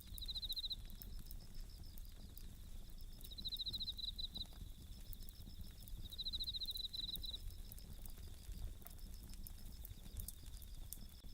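Japanese bell crickets (suzumushi) singing: three ringing, pulsed trills about three seconds apart, over fainter steady insect chirping. Scattered small crackles of a wood campfire run underneath.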